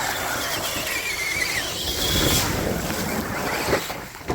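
Electric motor and drivetrain of an RC rock crawler truck whining as it drives through water. The whine shifts down in pitch and back up with the throttle, over the splashing of water, with a sharp click near the end.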